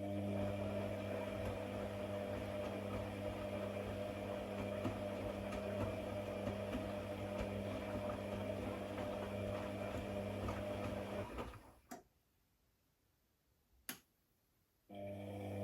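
An electric motor running with a steady hum, fading out about eleven seconds in. After a short silence with two sharp clicks, it starts again near the end.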